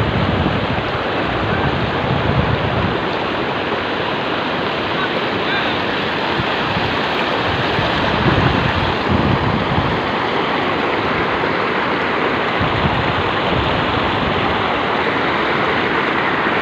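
Floodwater of the Markanda river rushing and pouring over a fall in a loud, steady wash of water.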